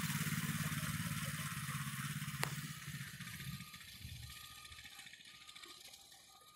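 Small vehicle's chain drive ticking rapidly as it coasts and spins down, fading away over about four seconds, with one sharp click about two and a half seconds in.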